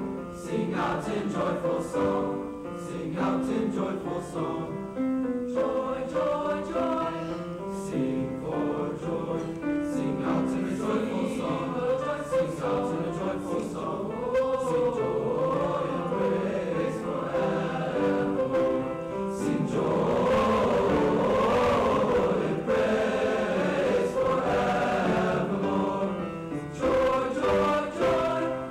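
Junior high school choir singing, many voices in changing chords. The singing swells to its loudest about two-thirds of the way through.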